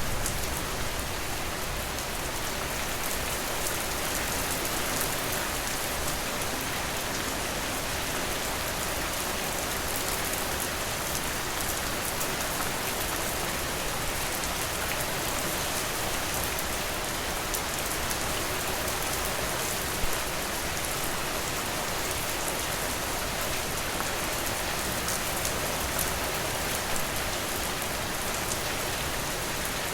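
Steady rainfall, drops pattering on a surface, with a few brief louder drop ticks here and there.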